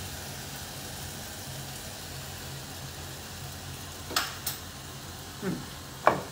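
Food sizzling low and steady in a hot pan, with two light clicks about four seconds in and two more short sounds near the end.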